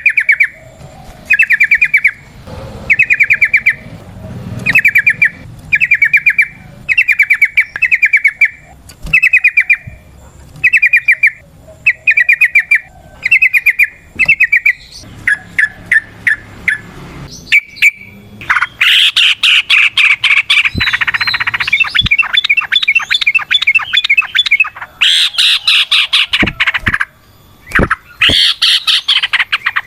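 Yellow-vented bulbul (trucukan) calling. Short bubbly phrases repeat a little more than once a second, then about two-thirds of the way in it breaks into a louder, long, rapid chattering song, the "ropel panjang" kept birds are prized for.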